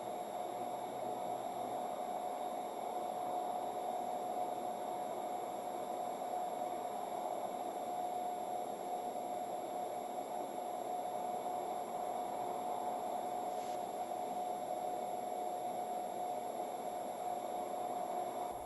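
Steady static-like hiss with a constant mid-pitched hum running through it, unchanging and with no other event: background noise of the recording or audio line.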